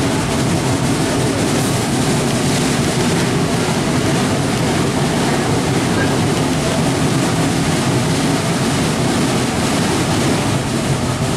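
Steady running noise of a passenger train car in motion, heard from on board: wheels on the rails and the car's rattle, with rushing air.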